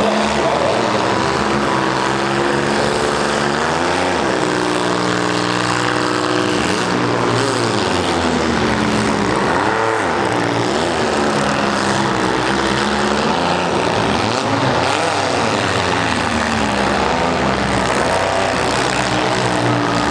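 Several demolition-derby compact cars' engines revving at once, their pitch rising and falling again and again as the drivers throttle up and back off.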